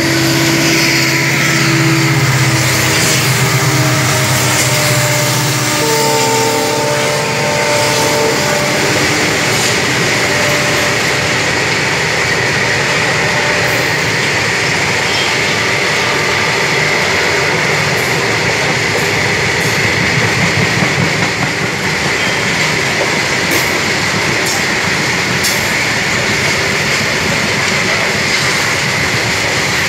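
A diesel-hauled goods train passing close by on the adjacent track. The locomotive's engine drone is heard for the first several seconds, then gives way to the steady rumble and clatter of a long rake of loaded open freight wagons rolling past, with scattered sharp wheel clicks.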